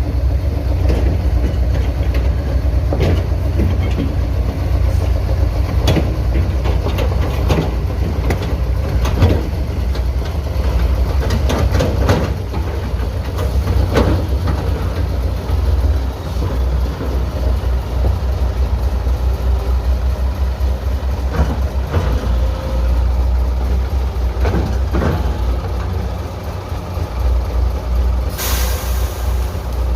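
Heavy diesel excavator and dump truck running, a steady low rumble with scattered metallic knocks and clanks from the digging. A short burst of air hiss comes near the end.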